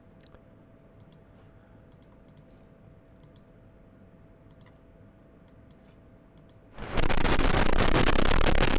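Scattered faint clicks over a quiet background, then about seven seconds in a loud, processed fire-crackle sound effect starts suddenly: a dense, even hiss of crackling.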